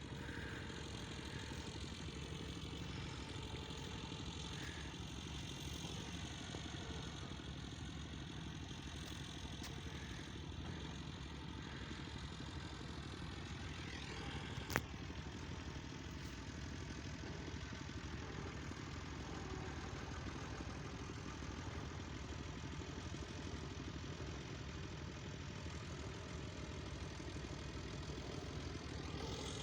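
Massey Ferguson tractor engine running steadily at idle, with a single sharp click about halfway through.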